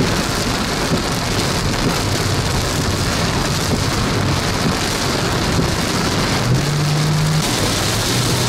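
Heavy rain pelting a moving vehicle's roof and windshield in a steady loud wash, with the vehicle's engine humming underneath and rising briefly near the end.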